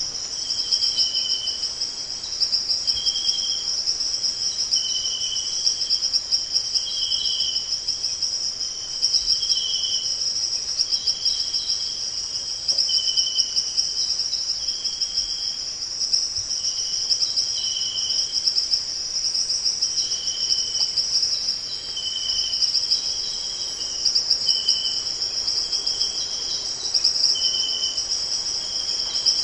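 A steady, high-pitched insect chorus, a fast pulsing trill that runs without a break. Short, separate chirps a little lower in pitch come about once a second over it.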